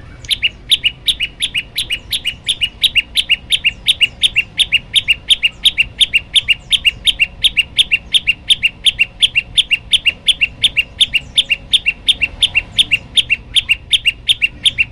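Prenjak lumut singing a fast, steady series of short high chirps, about four a second, repeated without a break.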